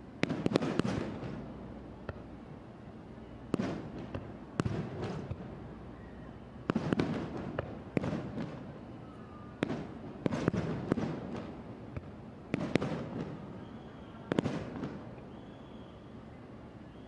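Aerial firework shells bursting in a rapid series, over a dozen sharp booms in clusters every second or two, each trailing off in rumbling echo and crackle. The bursts stop about fifteen seconds in.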